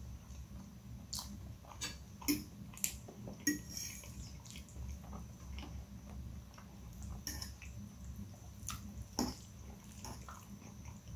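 Close-miked chewing and wet mouth sounds from eating instant noodles in a creamy carbonara sauce, with scattered short clicks, some from the metal fork on the glass plate. A faint steady low hum runs underneath.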